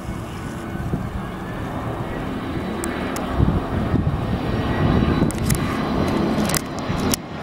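Arriving airliner's engines running with a steady rumble and a faint high whine. Several sharp clicks come in the second half, and the sound drops out briefly near the end.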